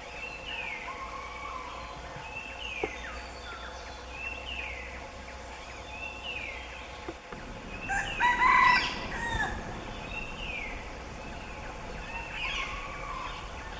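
Birds calling: a short falling call repeated about every second and a half, and about eight seconds in a louder, harsher call lasting about a second.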